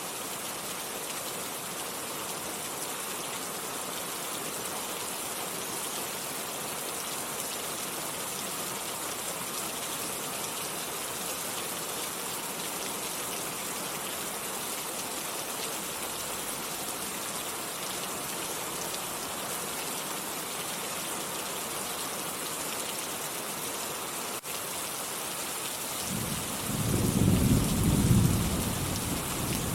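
Steady rain falling in an even hiss. About 26 seconds in, a roll of thunder begins, rumbling low and louder than the rain.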